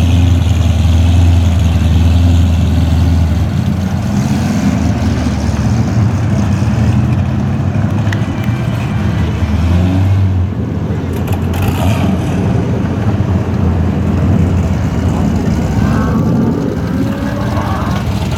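Chevrolet Corvette C6 Z06's 7.0 L LS7 V8 running through a Borla Stinger exhaust: a deep, steady, loud exhaust rumble.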